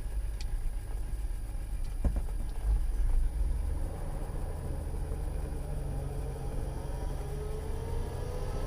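Cab of a 1948 Studebaker M5 pickup on the move: its Champion 169 cubic inch flathead six runs with a low rumble. A single sharp knock comes about two seconds in. From about halfway the engine's pitch rises slowly and steadily as the truck picks up speed.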